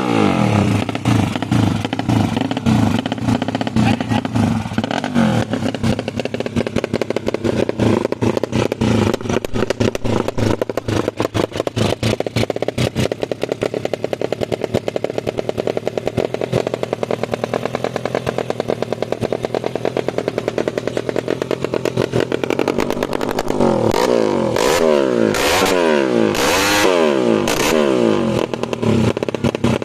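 Tuned Yamaha Jupiter 130 cc four-stroke single-cylinder motorcycle engine running loud, its exhaust firing in a rapid pulse. About two-thirds of the way through it is revved several times, the pitch rising and falling.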